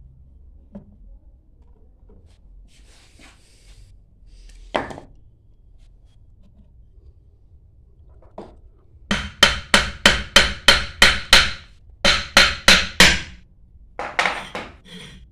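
Hammer blows on metal pump parts. A single knock comes first, then two quick runs of ringing strikes at about four a second, and a few lighter taps near the end.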